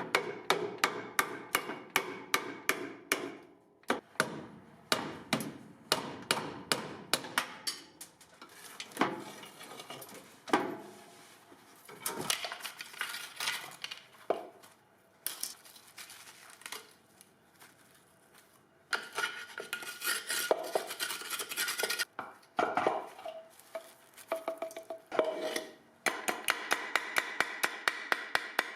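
Hand ratchet wrench clicking in quick, even runs as fasteners are worked loose for brake booster removal, with scattered metallic clinks and knocks of tools between the runs.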